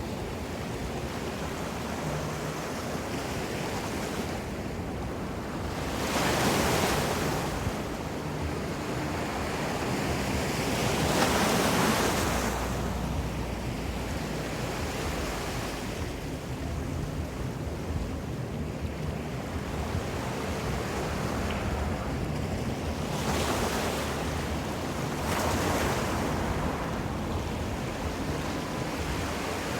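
Ocean surf: waves breaking and washing ashore over a steady rush of water, swelling louder every few seconds. Some wind on the microphone adds a low rumble.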